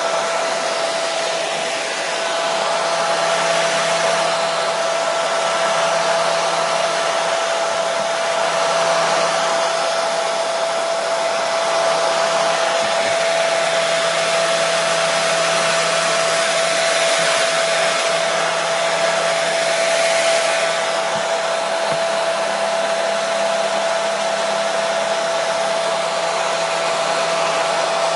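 Hair dryer running continuously at a steady speed: a loud, even rush of air over a constant motor whine, with no change in pitch or level.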